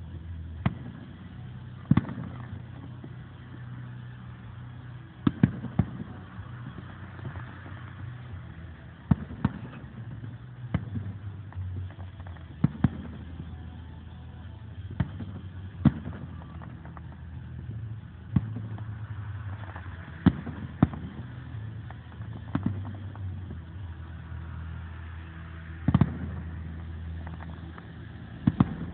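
Aerial firework shells bursting with sharp bangs at irregular intervals, some in quick pairs, about fifteen in all. Under them runs a steady low rumble of passing cars.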